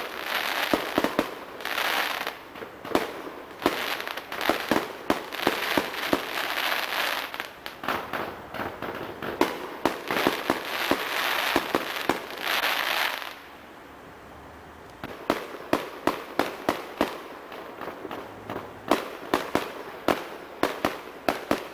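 Fireworks going off: hissing, crackling bursts packed with sharp pops and bangs, dying down briefly about two-thirds of the way through, then strings of quick firecracker-like pops.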